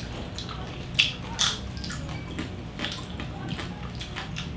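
Close-miked chewing of crispy lechon (spit-roasted pig) skin and meat: wet, squishy mouth sounds with a few sharp crunches, the loudest about a second and a second and a half in.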